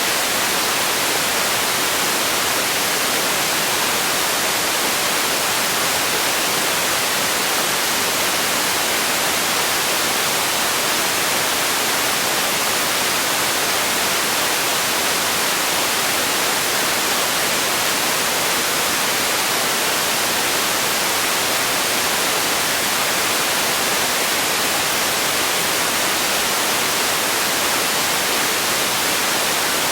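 Steady white-noise hiss, even and unchanging, bright and strongest in the high end with little bass.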